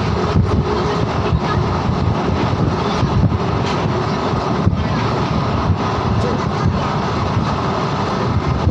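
Moving train running steadily, a continuous low rumble of wheels on the track.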